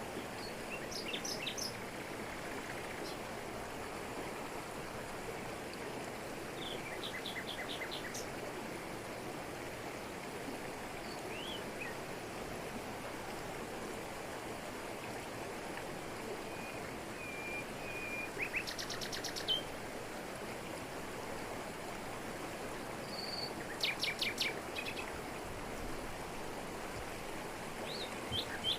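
Jungle waterfall falling onto rocks: a steady rush of water. Birds call over it now and then, with short rapid trills about 7, 19 and 24 seconds in and a few thin single whistles between.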